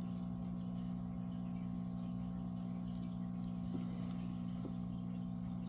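Steady low electrical hum with evenly spaced overtones, unchanging throughout, with a couple of faint soft ticks.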